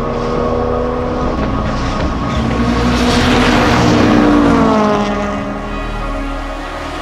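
Car engine passing at speed on a race circuit: a steady engine note grows louder to a peak about four seconds in, then drops in pitch and fades as the car goes by.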